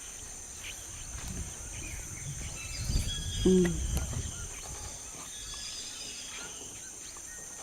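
Rainforest ambience: a steady high insect drone with scattered short bird chirps, and a brief low rumble about three to four seconds in.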